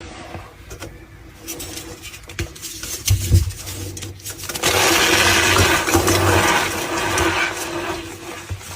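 Gym chalk being crushed and crumbled, with scattered squeaky crackles and crunches that thicken into a dense, loud crunching from about five seconds in until about seven and a half seconds.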